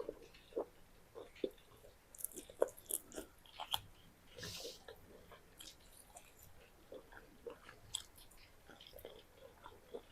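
Close-miked chewing of food: irregular wet mouth smacks and soft crunches, with a brief breathy hiss about four and a half seconds in.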